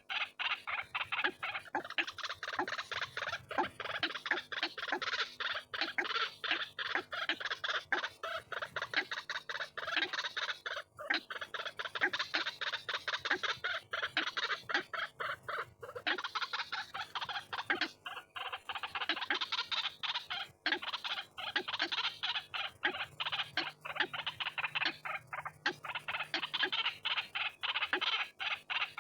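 White-breasted waterhens calling: a dense, unbroken run of rapid repeated notes from a bird-lure recording.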